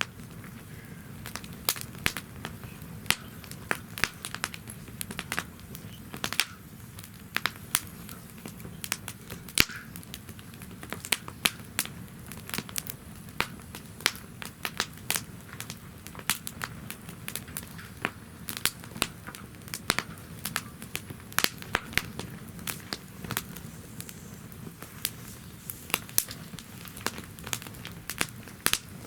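Wood campfire burning in a fire pit stand, crackling and popping with many sharp, irregular snaps over a steady low rumble of flame.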